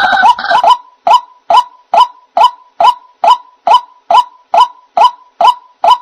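White-breasted waterhen (ruak-ruak) calls played as a bird-trapping lure. A harsh, overlapping croaking in the first second gives way to a steady series of short single notes, about two and a half a second.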